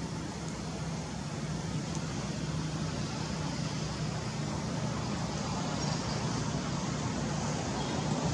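Steady low droning rumble with a constant hiss, like a running engine or traffic noise.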